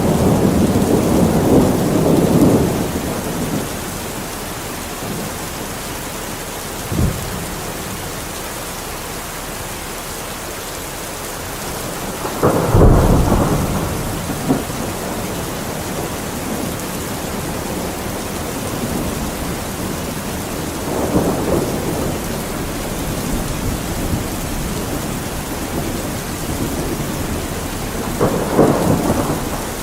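Steady rain hissing, with rolls of thunder rumbling at intervals: a long rumble at the start, the loudest roll about halfway through, and smaller ones later on.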